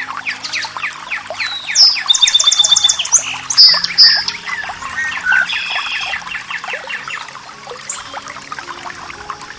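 Several wild birds singing over running water, with many quick chirps throughout. The loudest part is a fast trill and other bright phrases about two to four seconds in.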